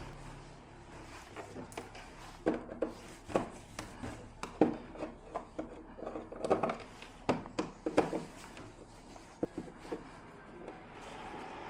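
Irregular light knocks, taps and rubbing, about a dozen scattered over several seconds, as objects are handled and set down.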